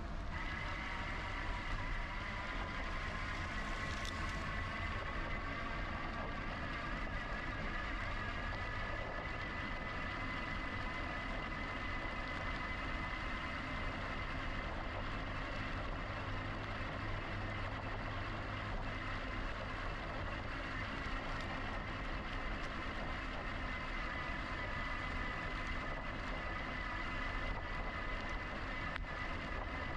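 GoCycle GX electric bike's motor whining as it drives the bike. The pitch rises over the first second or two and then holds steady, over a steady low rumble.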